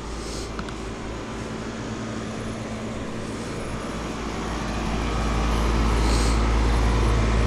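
Air conditioner's outdoor condensing unit running steadily with a low hum, after a coil cleaning and a new capacitor; it gets louder about five seconds in.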